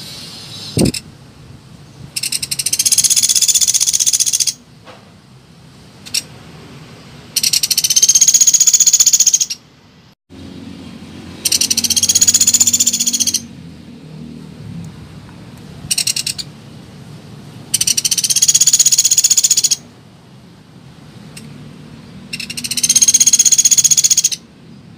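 Small woodpecker calling, a lure recording: five high, rapid rattling trills, each about two seconds long, come a few seconds apart, with a few short single notes between them.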